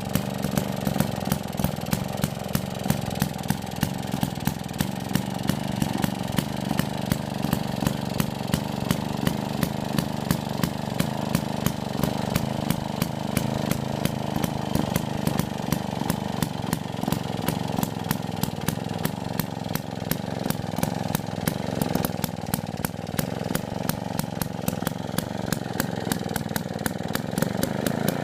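Villiers MK25C single-cylinder two-stroke stationary engine running steadily at an even speed, with a regular sharp beat several times a second.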